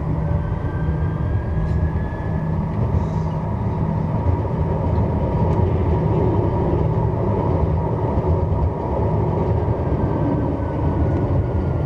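Tram running on its rails, heard from on board: a steady rumble of wheels and running gear with a faint motor whine that rises slightly early on and falls away near the end.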